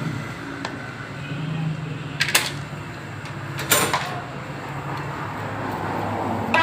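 Two sharp knocks, about a second and a half apart, over a steady low hum.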